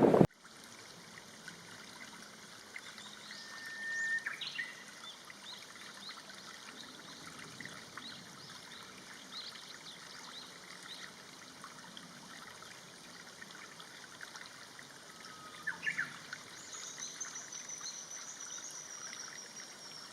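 Water trickling steadily, with a few short high bird calls about four seconds in and again about sixteen seconds in, then a long thin high whistle that falls slowly near the end.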